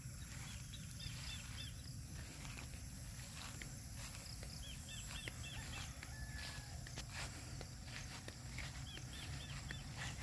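A bird calling three times, each call a quick run of about four short arched notes, over a steady low rumble, with a few faint clicks.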